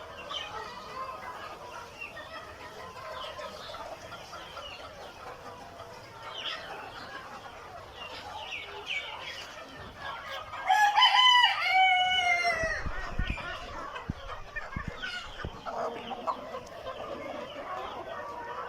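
Chickens clucking and calling, with a rooster crowing once, loudly, a little past halfway.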